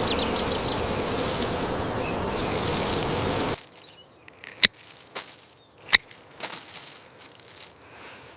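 Dense outdoor ambience of buzzing insects that cuts off abruptly a little over three seconds in, leaving quiet with a handful of sharp clicks.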